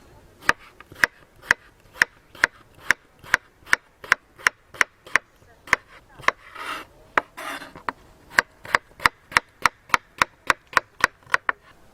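A rapid, regular series of sharp taps, about two to three a second, quickening slightly near the end, with a short rubbing scrape about six to seven seconds in.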